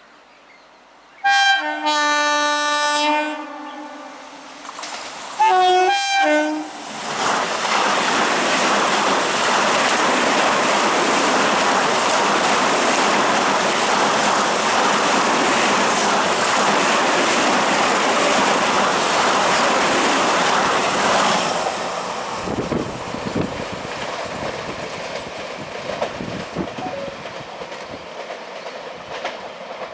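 Indian Railways express train passing at high speed. It sounds its horn in a long blast, then a shorter one that drops in pitch as it comes by, followed by the loud rush and clatter of the coaches over the rail joints for about fourteen seconds. The noise fades away over the last several seconds.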